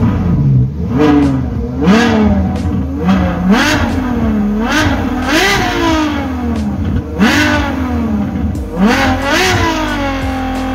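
Ferrari FF's V12 engine revved in a string of quick blips, each rising sharply and falling back, then held at a steady raised rev near the end.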